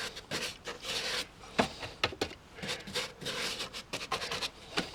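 Irregular light rubbing and scratching with scattered sharp clicks: hands working with glue and paper on foam scenery.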